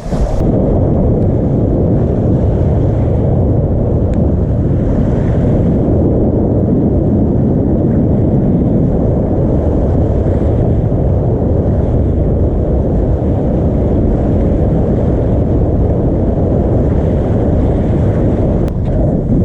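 Steady wind buffeting the microphone over the rush of sea and water along the hull of a Volvo 65 ocean racing yacht under sail.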